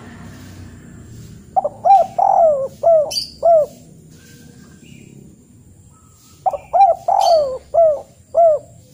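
A bird calling twice, each time a phrase of about five short notes that rise and fall in pitch, the two phrases alike and a few seconds apart. Fainter, higher chirps sound now and then.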